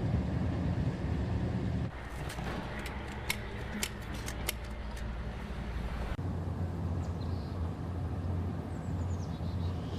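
Low steady rumble of vehicles that changes abruptly twice, with a run of sharp clicks between about two and five seconds in.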